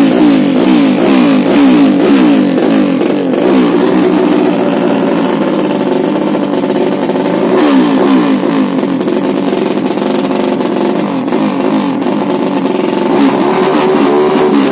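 200cc motorcycle engine being revved continuously, its pitch rising and falling in quick repeated wavers as the throttle is worked.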